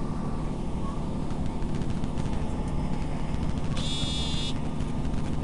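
Passenger train running, a steady low rumble heard from inside the carriage, with one short high beep about four seconds in.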